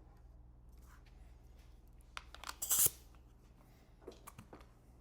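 Light handling noises in a small shop: a few faint knocks and clicks, then a short, sharp scraping rustle about two and a half seconds in, over a low steady hum.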